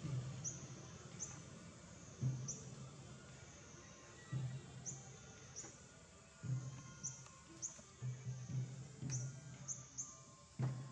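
Birds chirping: short high chirps falling in pitch, scattered about once a second, over a low rumble with several short dull thumps.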